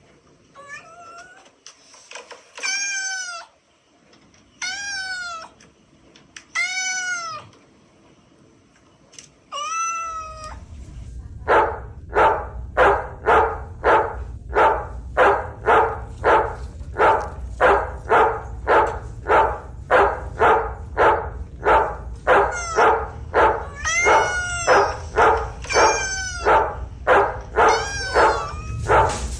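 Electronic stuffed toy cat meowing: four separate drawn-out meows, then a steady low motor hum with a fast, even run of short repeated meows, a little under two a second.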